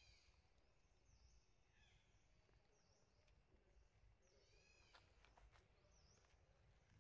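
Near silence: faint outdoor ambience with a bird's short high call repeating about every second and a half, and two brief chirping calls, one at the start and one about five seconds in.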